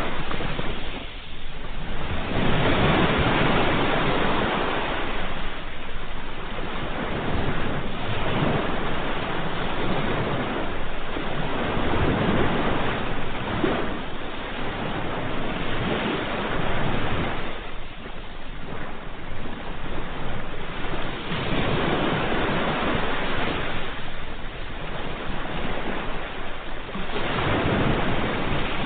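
Ocean waves breaking and washing on the shore, a continuous rush of surf that swells and ebbs with each wave every few seconds.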